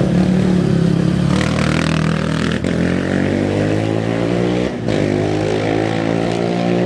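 Engine of an off-road race motorbike or quad running at fairly steady revs, its note holding level, with two brief dropouts partway through.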